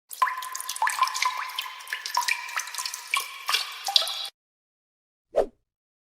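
Water dripping: a quick run of drops plinking into water, about three a second, for about four seconds, then stopping. A single brief sound follows about five seconds in.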